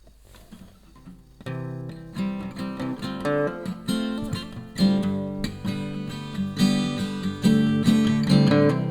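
Acoustic guitar strummed as a song's instrumental intro, starting about a second and a half in and growing louder.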